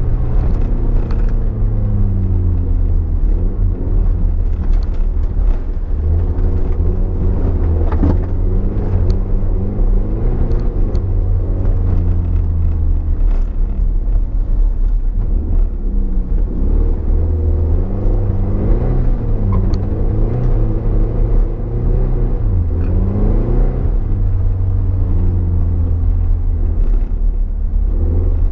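Toyota MR2's mid-mounted four-cylinder engine, heard from inside the cabin, revving up and falling back again and again under hard driving, over a constant low rumble, with a few short knocks.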